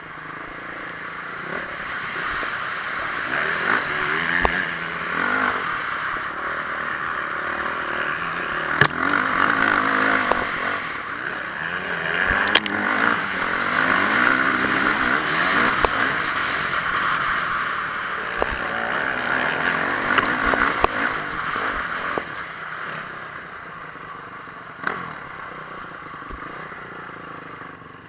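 Honda CRF450R single-cylinder four-stroke motocross bike engine revving up and down repeatedly under hard riding, over a steady rushing noise, with a few sharp knocks along the way.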